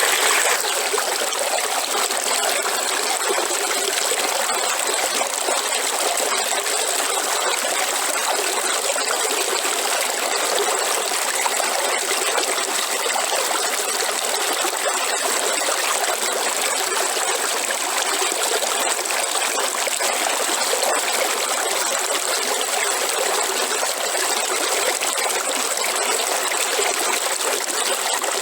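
River water flowing and trickling steadily, with a thin high-pitched tone above the rush of water.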